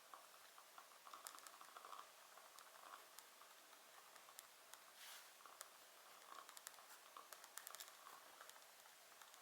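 Faint crackling wood fire: a soft hiss with scattered irregular pops and snaps, some in quick clusters.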